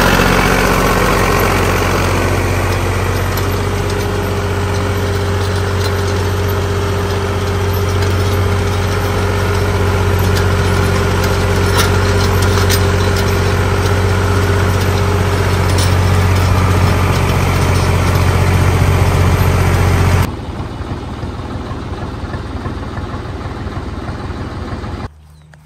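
Zetor 3011 tractor's diesel engine running steadily at an even speed. About 20 seconds in the sound drops abruptly to a much quieter level, and drops again near the end.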